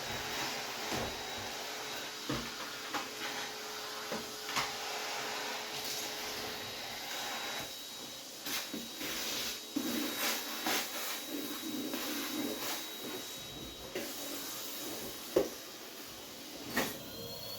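Vacuum cleaner running steadily, with scattered knocks and clicks as the nozzle bumps along the floor and furniture.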